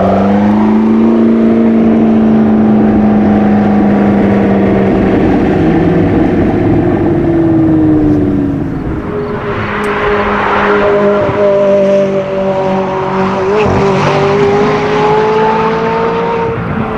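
Sports car engines at high revs. One climbs in pitch as it accelerates, then holds a steady high note for about eight seconds. After that it gives way to the steadier tones of other engines, with two rushes of noise.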